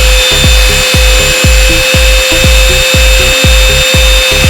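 Small DC electric motor spinning a homemade turbofan, with a steady high whine and hiss. Music with a deep thumping beat about twice a second plays over it.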